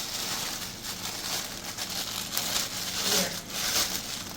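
Close, rough rubbing and scraping handling noise, with several louder strokes, the loudest near the end.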